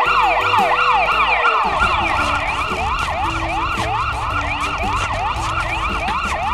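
Police-style electronic siren wailing in quick up-and-down sweeps, about two a second, with children's background music underneath.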